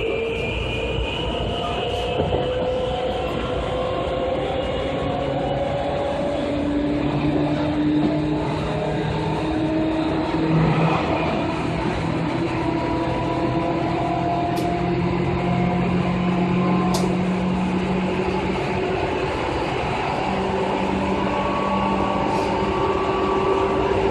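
2000-series train running, with several steady whining motor and gear tones that shift in pitch from time to time over a continuous rumble of wheels on rail. A few short sharp clicks come in the second half.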